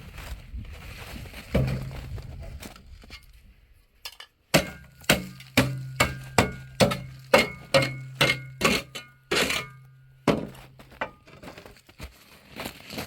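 Repeated hammer blows, about a dozen at roughly two a second, on something that keeps ringing with a low hum between strikes, after a single blow about a second and a half in.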